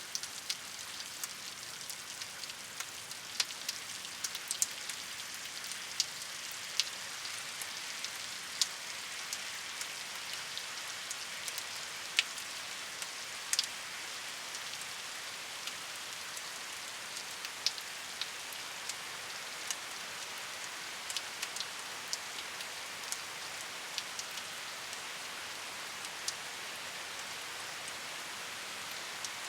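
Steady rainfall: an even hiss of rain with many separate drops ticking sharply on a hard surface, scattered irregularly throughout.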